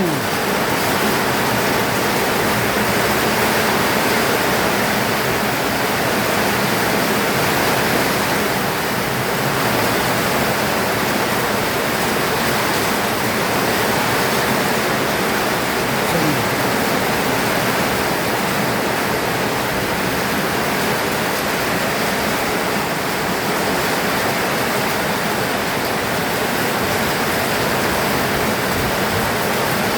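Heavy tropical rain pouring down, a steady dense hiss.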